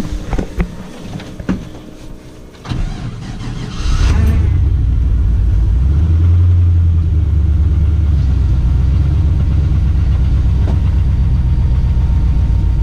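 Chevy C10's swapped-in LS V8 engine starting from cold at about −14 °C coolant temperature. It catches about four seconds in and settles straight into a steady, loud cold-start idle.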